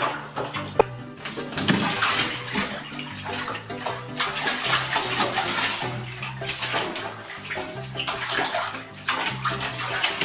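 Running and splashing water, like a bathtub being filled or used for washing, under background music.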